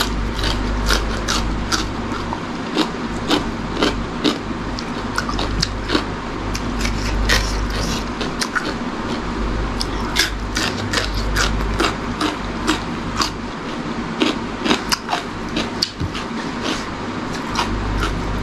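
Close-up crunching and chewing of raw cucumber slices, a quick run of sharp, crisp crunches as she bites and chews, over a steady low hum.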